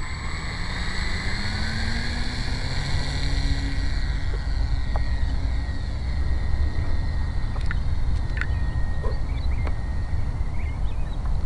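Electric motor and propeller of an E-flite Hawker Hurricane RC model plane whining, rising in pitch over the first few seconds and then holding steady, over a heavy low rumble.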